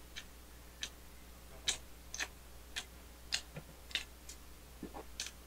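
Faint, irregular wet clicks and smacks of a mouth chewing a mini burger, roughly two a second, with a couple of duller, lower sounds among them.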